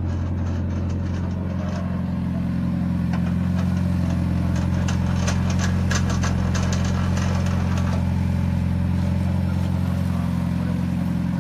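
Honda Civic EG hatchback drag car's engine idling steadily. A run of clicks and rattles sounds over it between about three and eight seconds in.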